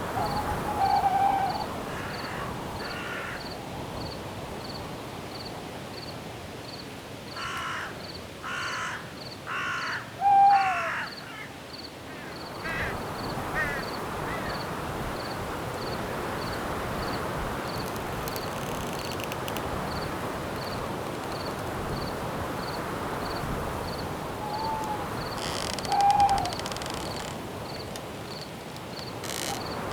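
Night forest ambience: crickets chirping steadily about three times a second under a wash of wind. A few short owl hoots come near the start, about a third of the way in, and near the end. A run of four or five harsh, caw-like bird calls comes about a quarter of the way in.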